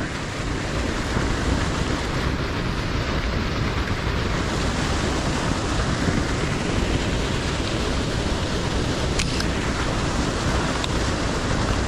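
Steady wind noise buffeting the microphone, with two faint clicks late on.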